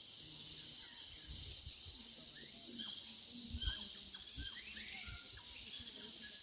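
Outdoor ambience with a steady high hiss and scattered short bird chirps and brief whistles, busiest in the middle. A few low thuds, the loudest about three and a half seconds in.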